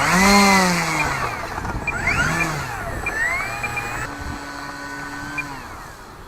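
Brushless electric motor and propeller of an E-flite Cessna 150 RC plane in flight, its whine sweeping up and down in pitch as it passes and fading as it flies off. About four seconds in it settles to a steadier, lower tone that drops away near the end.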